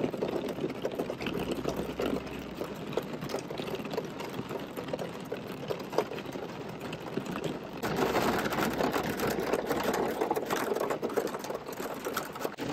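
Heavy rain drumming on a car's roof and glass, heard from inside the cabin as a dense patter of many small hits. The rain gets harder about eight seconds in and stays heavier for several seconds.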